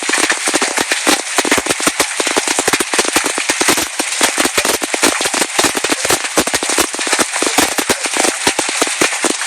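Large hailstones striking hard surfaces in a dense, irregular clatter of sharp impacts, many each second, over a steady hiss.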